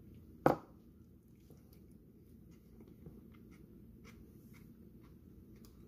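Close-up eating of a slice of homemade keto pizza: one sharp, loud crunch about half a second in as a bite is taken, then quiet chewing with faint, scattered mouth clicks.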